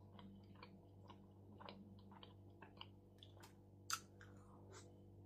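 Faint close-up chewing of shawarma, a string of small mouth clicks, with one sharper bite into the shawarma wrap about four seconds in.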